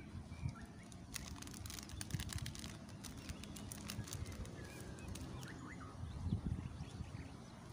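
Quiet outdoor ambience with scattered short bird chirps, and a run of faint light ticks from about one to three seconds in.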